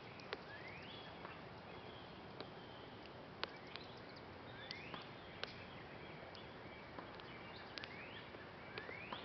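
Faint outdoor ambience: short rising whistled calls, likely a bird, repeat several times, with scattered sharp ticks and clicks in between.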